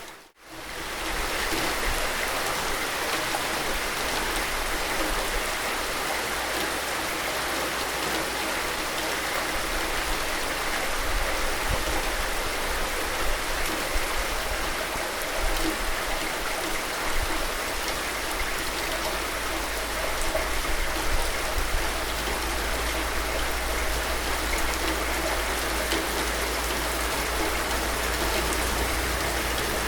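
Steady heavy rain, an even hiss of falling water with a low rumble beneath. It cuts out for a moment right at the start, then holds steady.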